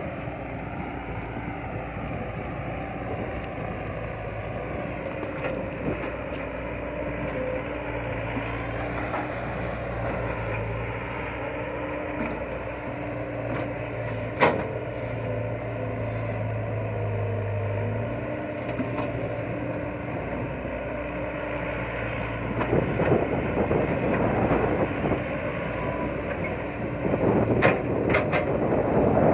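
Excavator's diesel engine running steadily, its pitch shifting a little. There is one sharp knock about halfway through, and the sound grows louder and rougher in the last few seconds.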